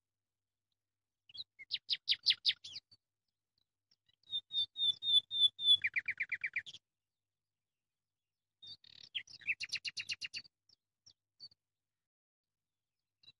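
A bird singing: three short phrases of quick, high, repeated chirping notes with pauses between them.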